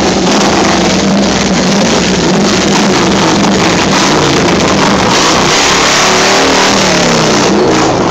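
Car engines running in packed, slow traffic, loud and steady. About five seconds in, an engine revs, its pitch sweeping up and down for a couple of seconds.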